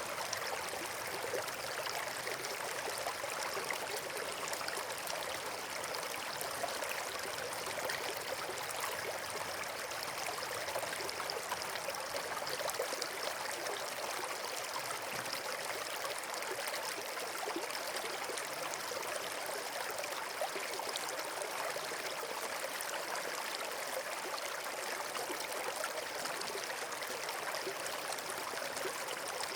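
Water flowing steadily in a stream or small waterfall, with a constant rushing and trickling.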